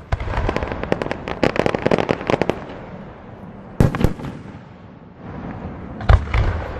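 Aerial fireworks going off: a sharp bang, then a dense run of rapid crackling for about two and a half seconds, two more loud bangs just past the middle, and a cluster of bangs near the end.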